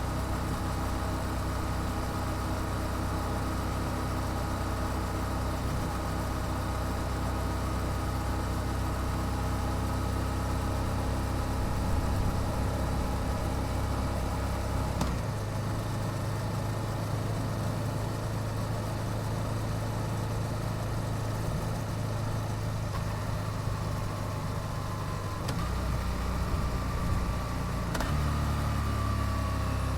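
Yamaha YZF-R7's 689 cc parallel-twin engine, through its stock exhaust, running steadily with an even, unchanging note. The note shifts about halfway through and again twice near the end.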